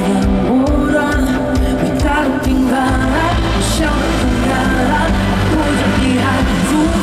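Live pop music played loud over a concert sound system, with bass and sustained chords and a voice singing over them.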